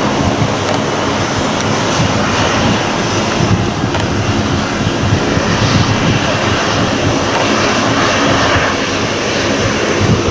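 Jet airliner engines running, a loud steady rush of noise.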